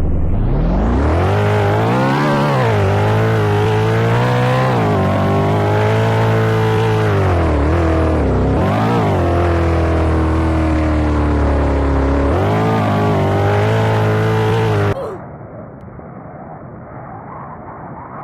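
A car engine revving hard, its pitch rising and falling again and again, very loud. About fifteen seconds in it cuts off suddenly to a quieter, duller rumble.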